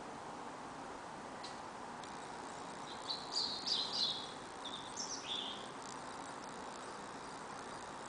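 A bird giving a quick series of short, high chirps about three to five seconds in, over a steady background hiss.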